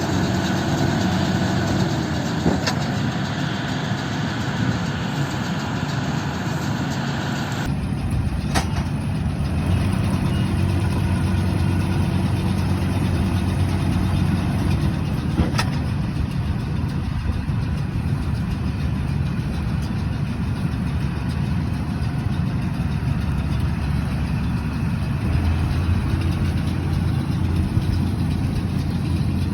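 YTO-1304 tractor's diesel engine running steadily, with an abrupt change in its tone about eight seconds in.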